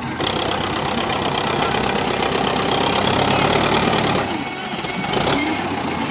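Tractor diesel engine running. It grows louder just after the start, holds for about four seconds, then eases off.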